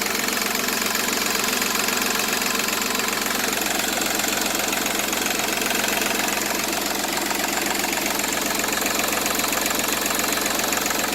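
Seat Ibiza 1.4 TDI three-cylinder turbo diesel engine idling steadily. It is a 205,000 km engine that the owner says runs like a new one.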